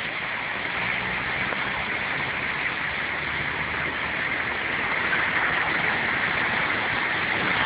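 Steady hiss of heavy rain and rushing floodwater, growing slowly louder.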